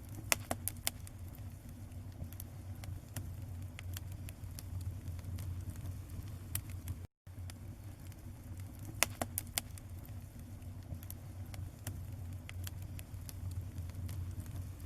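Bonfire burning, with irregular sharp crackles and pops over a steady low rumble; louder clusters of pops come near the start and again about nine seconds in. The audio cuts out for a moment about seven seconds in.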